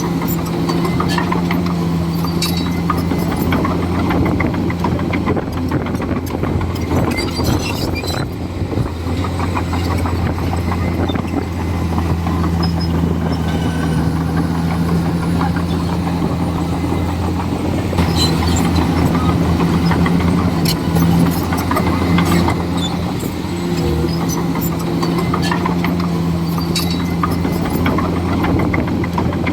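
Komatsu D41E bulldozer's diesel engine running steadily under load, with repeated metallic clanks and cracks as it works. The engine grows a little louder for a few seconds in the middle.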